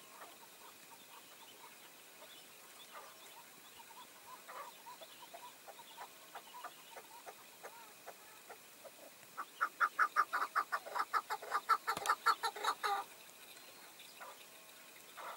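Chukar partridges calling: scattered faint clucks, then about nine and a half seconds in a loud, fast run of repeated clucking notes lasting about three and a half seconds. A single sharp click sounds inside the run.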